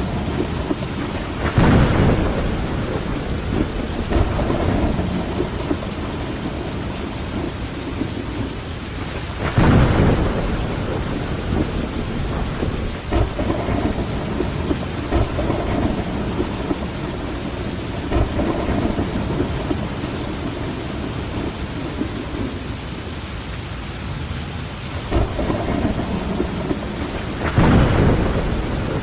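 Steady rain on a window, with rolls of thunder swelling up about two seconds in, again about ten seconds in, and near the end.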